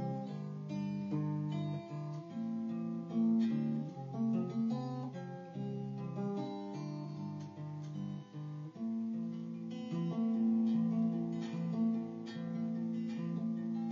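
Stratocaster electric guitar played clean through a 1966 Fender Deluxe Reverb amplifier, picking a run of chords and single notes in an instrumental passage.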